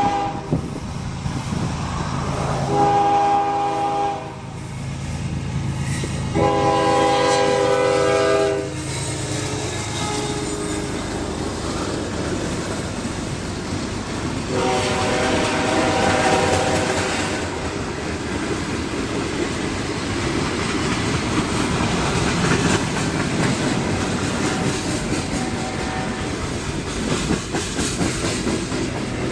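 CSX freight locomotive's horn sounding three long blasts, about three, seven and fifteen seconds in, the last one longer and weaker, over the steady rumble and clatter of the moving freight train.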